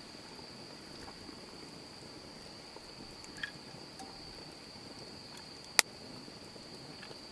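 Steady, high-pitched insect trilling carries on without a break. A few small clicks sound, and one sharp, loud snap comes a little before the end.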